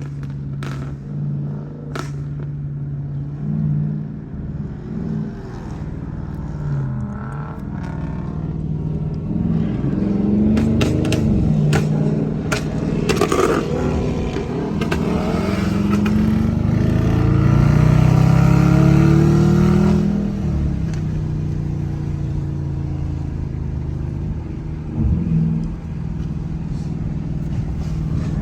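Car engine idling, then revved up and down again and again, loudest about two-thirds of the way through before settling back to idle; a few sharp knocks are mixed in.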